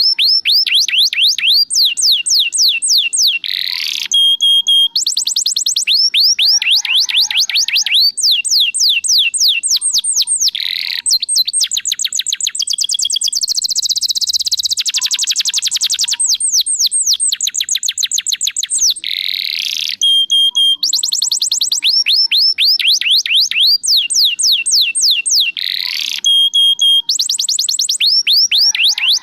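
Domestic canary singing a long, loud, unbroken song of fast trills: rapid runs of short, high falling whistles, with a denser buzzy rolled phrase about halfway through.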